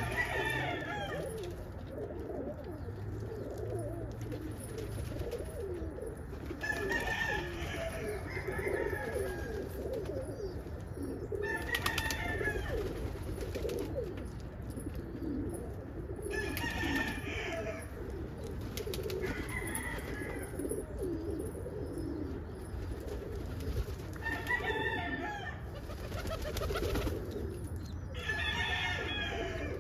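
Domestic pigeons in a loft cooing without a break, a low, steady warble. Short, louder, higher-pitched bird calls break in about every four to five seconds.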